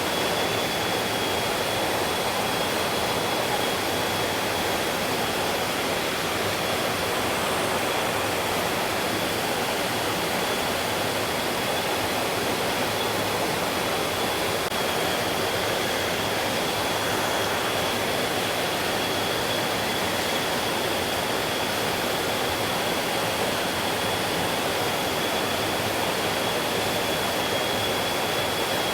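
A stream's flowing water: a steady, unbroken rush that does not change. A thin, steady high tone runs through it.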